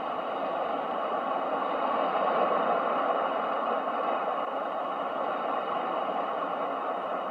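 Steady rushing noise of ocean waves used as a white-noise sleep sound, swelling a little a couple of seconds in and easing off again.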